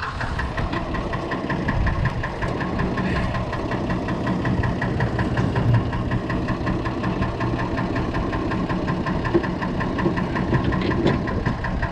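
Perkins six-cylinder diesel engine in a Fordson Major tractor idling steadily with an even, fast beat.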